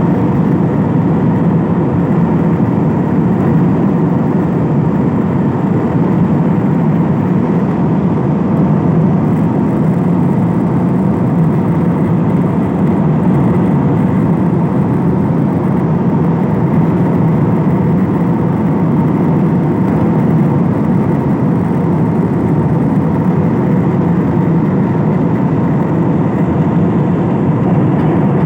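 Steady engine and airflow noise inside an airliner cabin in flight: an even, low rumbling hiss with a faint steady hum.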